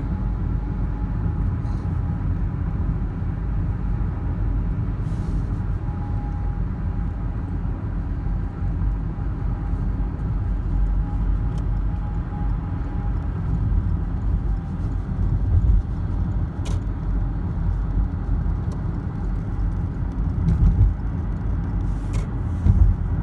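A moving car heard from inside the cabin: a steady low rumble of tyres and engine on the road, with a faint steady whine over it. A few brief bumps and light clicks come in the second half.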